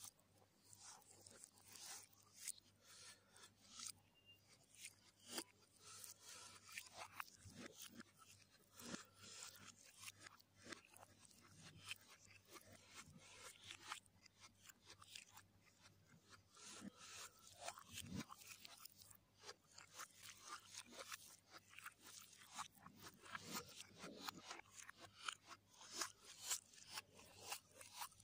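Quiet close-up chewing and crunching of food in the mouth, with wet mouth sounds: many quick, crisp crunches, as from biting raw onion and chewing spicy noodles.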